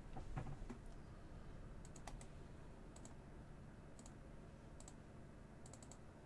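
Faint, scattered computer mouse clicks, some single and some in quick runs of two to four, made while a randomizer is worked on screen.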